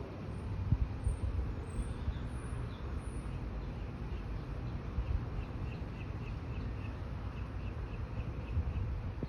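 Outdoor background: a steady low rumble with small, high chirps repeating about three times a second in the second half.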